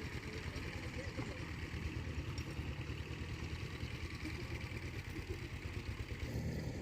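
A small engine running steadily with a rapid low putter; its note shifts slightly about six seconds in.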